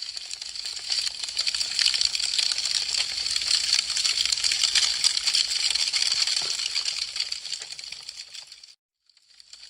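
Wood fire crackling: a dense stream of small sharp snaps and pops from burning branches. It swells in over the first second and fades away shortly before the end, leaving a moment of silence before the crackling begins to return.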